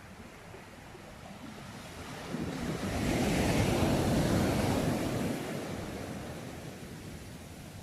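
A single sea wave breaking and washing up the shore: the surf swells about two seconds in, peaks, then slowly dies away.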